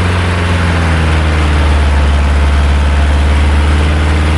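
Engine of a small loaded logging truck running steadily at an even, low pitch, with no rise or fall in speed.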